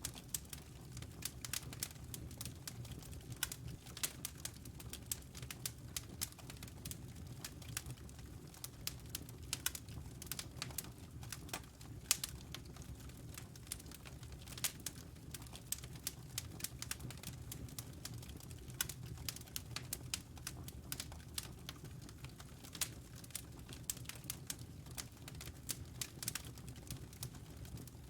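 Wood fire in a fireplace crackling, with frequent irregular sharp pops and snaps of burning logs over a low steady rumble.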